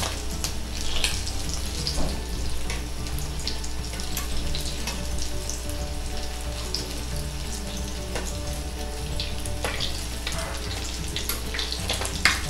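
Breaded egg potato balls shallow-frying in oil in a wok: a steady sizzle with scattered sharp pops and clicks.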